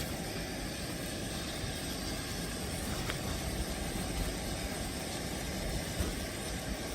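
Steady rushing noise, heaviest in the low end, with a faint click about three seconds in.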